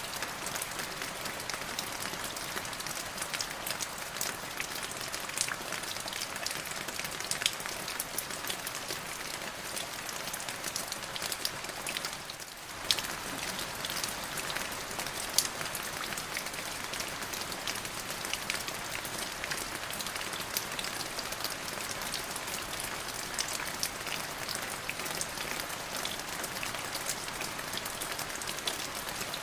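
Steady rain falling on a surface, a continuous hiss full of individual drop ticks. It dips briefly about twelve seconds in, and a couple of louder drops stand out just after.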